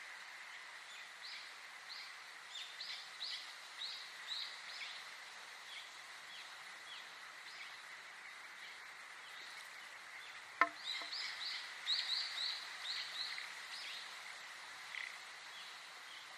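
A bird calling in quick runs of short, falling chirps, twice in a row with a pause between, over a steady high insect-like hum and a soft hiss. A single sharp click about ten and a half seconds in.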